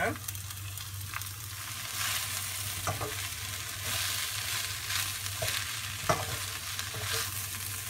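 Shredded cabbage and ground lentil paste sizzling in hot oil in a kadai while a wooden spatula stirs and tosses it. The spatula scrapes and knocks against the pan a few times over the steady frying hiss.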